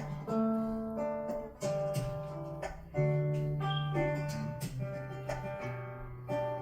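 Acoustic guitar strumming and picking a slow chordal introduction, each chord left to ring for a second or so before the next.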